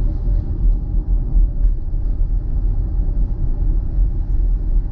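Steady low rumble of road and tyre noise inside a Tesla electric car's cabin as it drives on a rain-soaked road.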